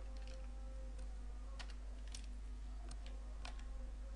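Scattered clicks of a computer keyboard, a few separate taps, over a steady low electrical hum.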